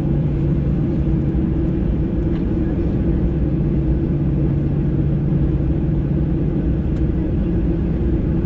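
Steady cabin hum of a Boeing 737-800 on the ground with its CFM56-7B engines at idle, a constant low drone with two steady low tones and a few faint ticks.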